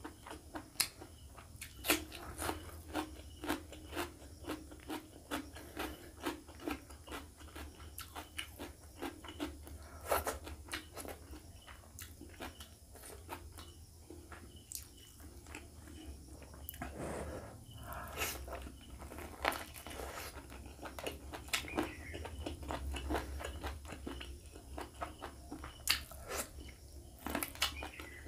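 Close-miked eating: a mouth chewing rice and chicken curry, with many irregular wet smacks and clicks. A faint steady low hum lies underneath.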